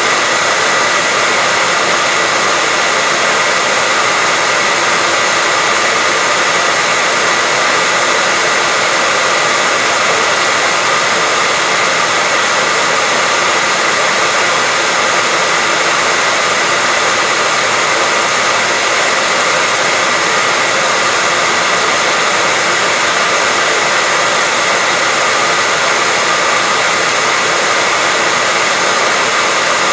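Hair dryer running steadily: an even, unchanging loud blowing noise with a faint steady whine in it, played as continuous white noise to help a baby sleep.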